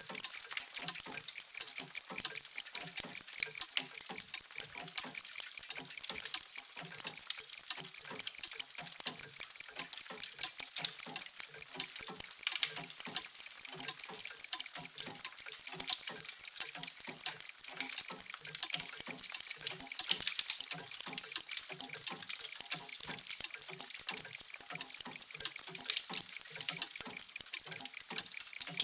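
Many mechanical clocks ticking at once, their ticks overlapping into a dense, steady clatter with no single beat, with softer lower tocks beneath.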